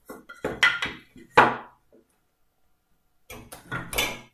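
Pieces of timber and hand tools being knocked and set down on a wooden workbench: a run of sharp wooden knocks, the loudest about a second and a half in, a short pause, then more clatter near the end.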